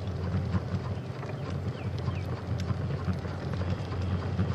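Steady low rumble of wind buffeting the microphone while riding along a trail, with faint scattered clicks and a couple of short bird chirps about two seconds in.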